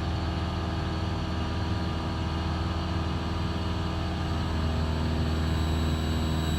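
Cessna 172 Skyhawk's piston engine and propeller droning steadily in flight, heard from inside the cockpit. A faint high steady whine joins near the end.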